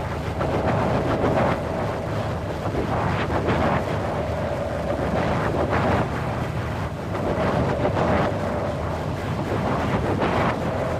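Wind blowing in gusts that swell and ease every second or two, with a faint steady whistle underneath.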